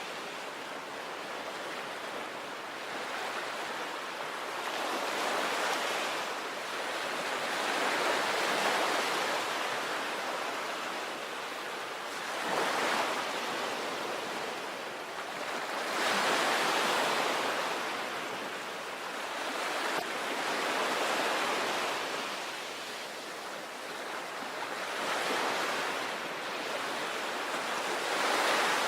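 Sea waves breaking on a beach: a steady wash of surf that swells and eases every few seconds, with about six stronger breakers.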